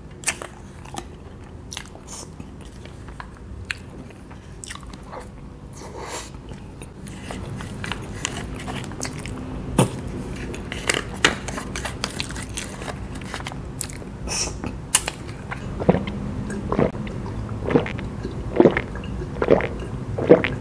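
Close-miked eating of a soft lava chocolate cake: chewing with scattered small mouth clicks. Over the last few seconds come gulps of cola, about one a second.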